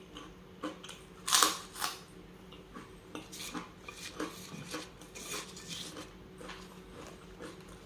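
Close-miked eating sounds: a utensil clinking and scraping on a plate amid quiet chewing, in irregular clicks, with the loudest clack about a second and a half in.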